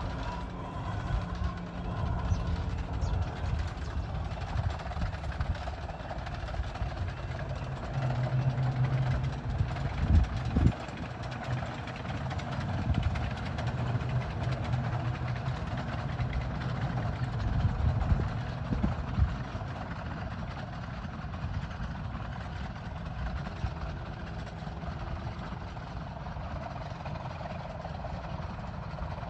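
A 15-inch-gauge miniature railway train running on the Romney, Hythe & Dymchurch Railway, with a steady low rumble. There are a few sharp knocks about ten seconds in and again near nineteen seconds.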